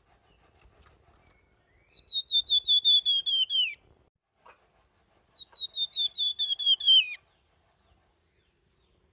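A songbird known to Indonesian bird keepers as the flamboyan, singing its fluting song: two quick phrases of rapidly repeated whistled notes, each under two seconds long and dropping in pitch at its end.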